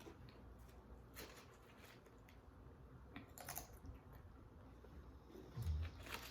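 Close-up chewing and crunching of food, a string of short crisp crunches, with one low thump about five and a half seconds in.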